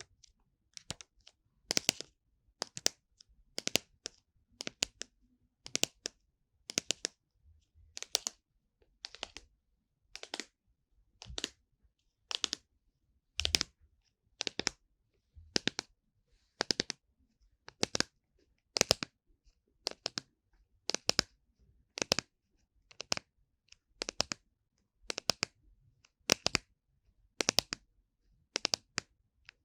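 Ear-cleaning strokes inside the silicone ear of a 3Dio binaural microphone: short, crisp scratching rubs, about one a second, at an even pace.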